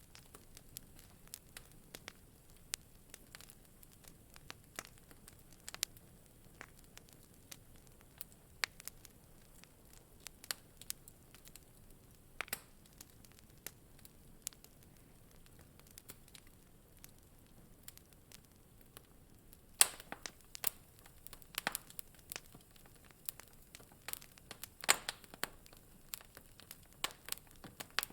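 Wood fire crackling in a fireplace: irregular sharp pops and snaps over a faint steady hiss, coming thicker and louder in the last third.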